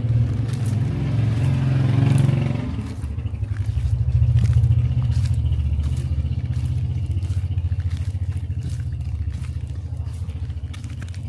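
Street traffic: a steady low engine rumble, with a vehicle passing close. Its noise swells to a peak about two seconds in and fades by three. Faint clicks and scrapes come from the street.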